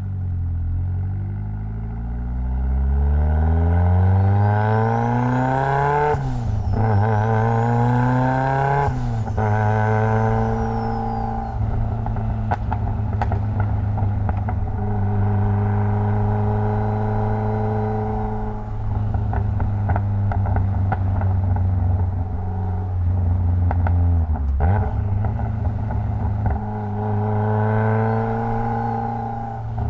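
Mitsubishi Lancer Evolution X's turbocharged 2.0-litre four-cylinder accelerating hard through the gears: the revs climb, break at an upshift, climb again and shift again, then hold steady while cruising, dip briefly about two-thirds of the way in, and rise once more near the end.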